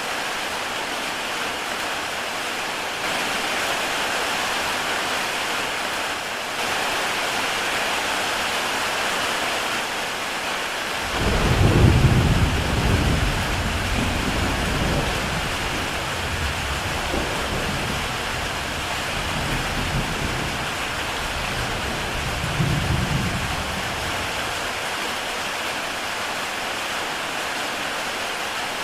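Heavy rain falling steadily on a tile roof. Over a third of the way in a roll of thunder breaks in suddenly, rumbles deep for about fourteen seconds with a second swell, then fades out under the rain.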